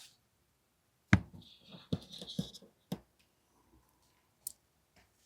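Small tools and parts being picked up and set down on a workbench while searching for a tool: a sharp knock about a second in, a quick cluster of clicks with a short scrape about two seconds in, and another click about three seconds in.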